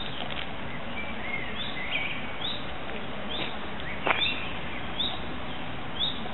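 Birds chirping outdoors: short high calls repeated about once a second, with one longer falling note about four seconds in, over a steady background hiss.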